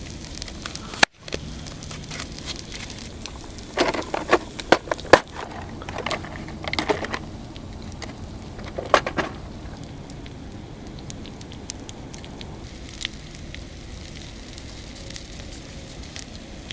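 Wood campfire crackling, with clusters of sharp pops a few seconds in and again near the middle over a steady low hiss of burning. The sound drops out for an instant about a second in.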